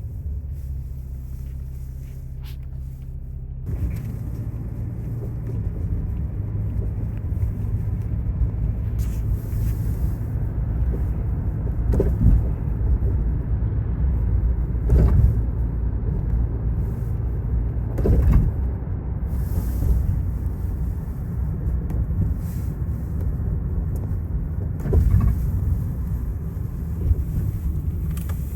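Low, steady rumble of a car running. It steps up in level about four seconds in, and there are several brief louder knocks or bumps later on.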